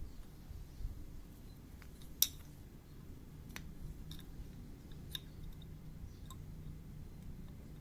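Small metal parts and hand tools of a scooter's rear brake caliper being handled, giving a few sharp, scattered metallic clicks and clinks, the loudest about two seconds in, over a low steady hum.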